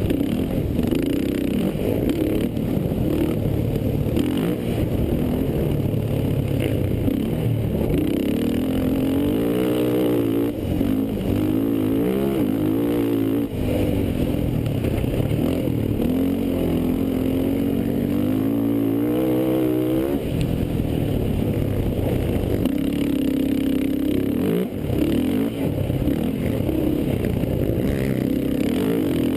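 Racing quad (ATV) engines running hard, the revs rising and falling again and again as the riders accelerate and back off.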